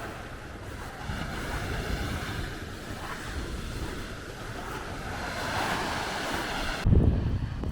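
Baltic Sea surf washing onto the shore under wind, a steady rushing noise. About seven seconds in it cuts abruptly to low, gusty wind rumble buffeting the microphone.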